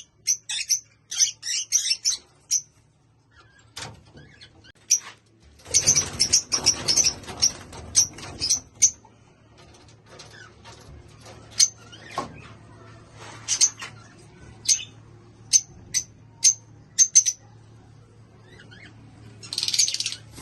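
Caged small parrots chirping in quick, high, sharp calls, thick at the start and again about six seconds in, then in scattered single chirps. A stretch of rustling, like fluttering or handling in the cages, runs from about six to eight seconds in.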